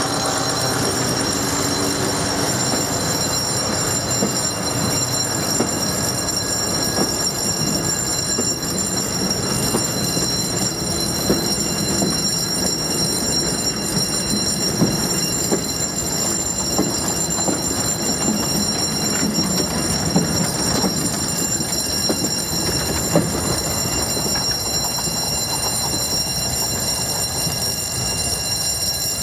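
Diesel passenger train of old coaches rolling past over a level crossing, its wheels knocking over the track, while the crossing's warning bell keeps ringing. The train noise eases near the end as the last coach clears.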